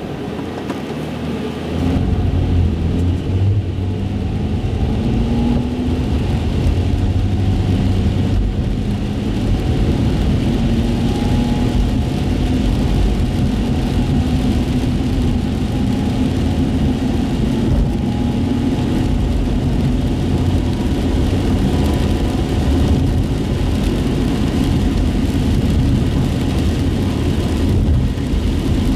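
Car engine and tyres heard from inside the cabin, driving on a wet road; the car picks up speed about two seconds in, the engine note slowly rising, then runs on steadily.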